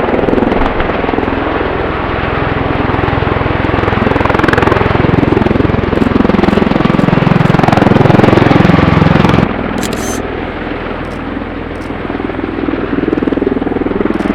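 Helicopter flying past with a loud rotor and engine noise. It swells to its loudest about eight seconds in, drops off sharply a second or so later, then builds again.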